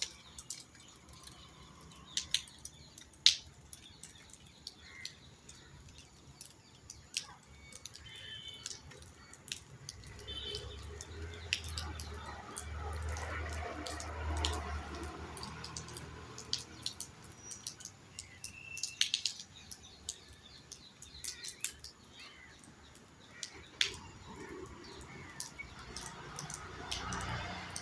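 Raindrops dripping in scattered sharp ticks while birds chirp in short calls now and then. A low rumble swells up in the middle and again near the end.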